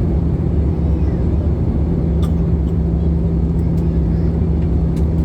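Steady cabin noise inside an Airbus A320-214 airliner: an even low rumble from its CFM56 engines and the airflow, with a constant low hum running through it. A few faint ticks can be heard.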